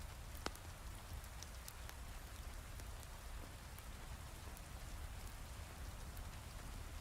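Steady hiss of heavy rain with a low rumble underneath, and a few sharp pops from a crackling wood fire, the loudest about half a second in.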